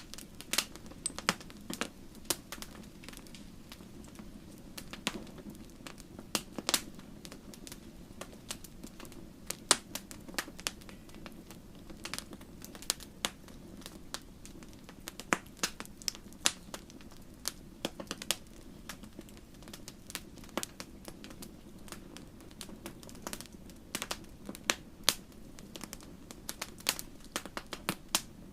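Wood fire in a fireplace crackling, with irregular sharp pops and snaps over a steady low rush of flame.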